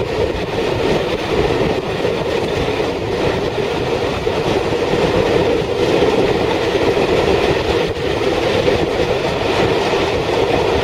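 Passenger coaches of a steam-hauled train rolling past on the rails: a steady loud rumble of wheels on track.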